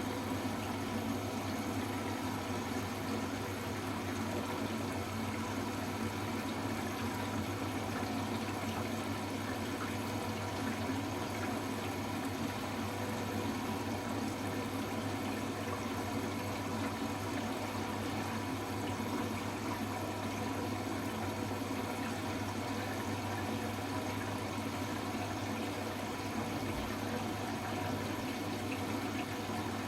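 Hoover H-Wash 300 Plus washing machine with water running through it during its rinse stage, a steady hum under the rush of water.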